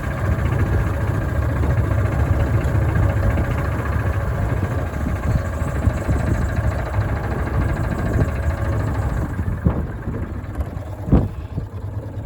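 Farm machine's engine running steadily, with two sharp knocks near the end.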